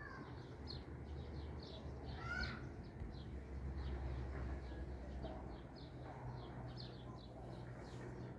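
Birds chirping: a quick run of short, high chirps repeating several times a second, with two louder curving calls near the start and about two seconds in, over a steady low hum.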